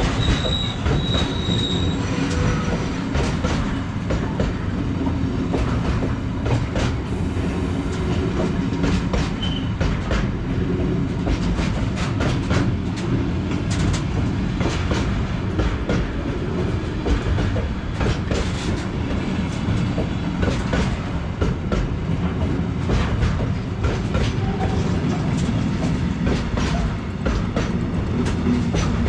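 Freight train wagons rolling past with a steady low rumble and many sharp clicks of wheels over rail joints. A high wheel squeal sounds briefly at the start.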